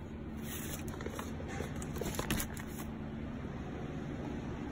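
Faint rustling and a few light clicks, mostly in the first three seconds, over a low steady hum.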